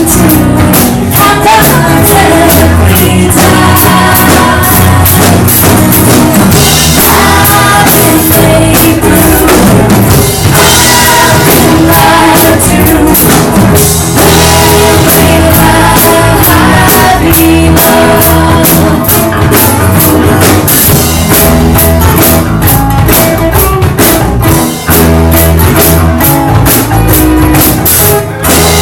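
Loud live band music with drums and singing, recorded so loud that it distorts.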